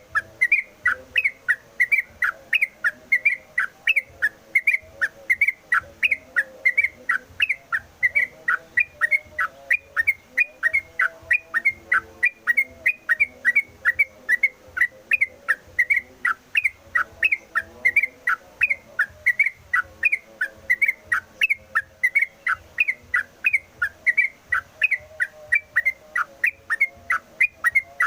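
Yellow-vented bulbul (trucukan) in full song: an unbroken run of short, clear whistled notes, about two a second, each a quick slide in pitch.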